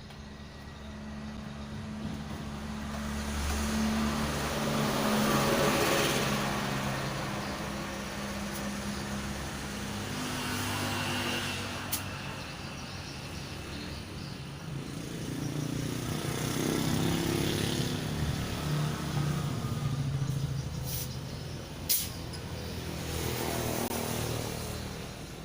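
Motor vehicles passing on a nearby road, their engine noise swelling and fading away about three times, with a couple of sharp clicks in between.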